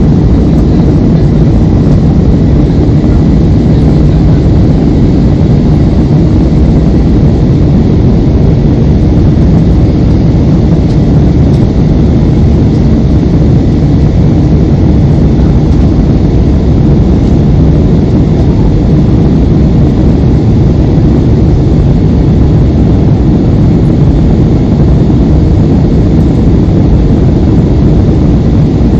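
Steady low rumble of a jet airliner's engines and rushing air, heard from inside the passenger cabin, with no change in pitch or level.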